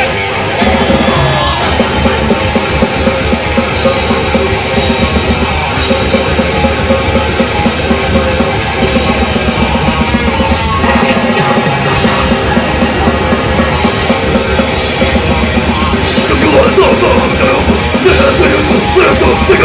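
Live heavy metal band playing loud and dense: distorted guitars over fast, relentless drumming.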